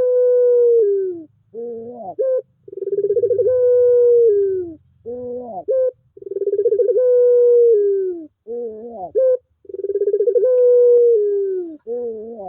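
Puter pelung dove cooing over and over: a short rising-and-falling note, then a long, drawn-out coo that slides down in pitch at its end, the pair repeating about four times.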